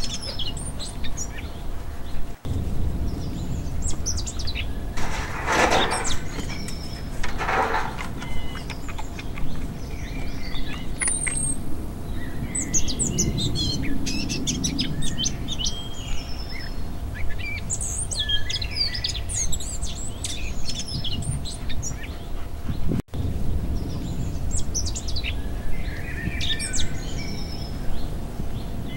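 Small birds chirping and calling over and over, over a steady low rumble. The sound cuts out briefly twice.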